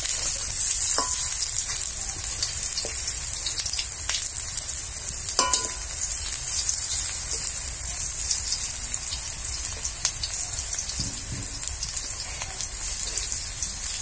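Mustard-flower fritters sizzling steadily in hot oil in a metal kadai, with a metal spatula now and then scraping and tapping against the pan as they are turned.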